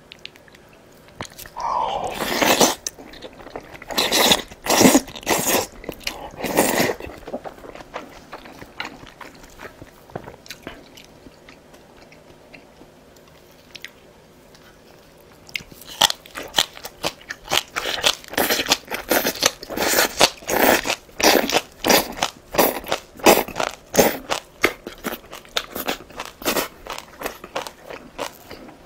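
Close-up eating sounds: a few wet bites into a spoonful of dumpling soup in the first several seconds, then a quiet stretch. About halfway through comes rapid crunching of green onion kimchi, three or four crunches a second, which runs to the end.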